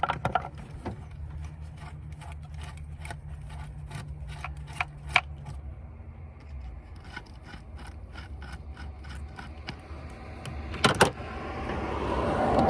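Scattered light metallic clicks and clinks of a hand wrench working a stuck valve-cover bolt on the engine, with two louder knocks near the end. A low steady hum sits under the first five seconds.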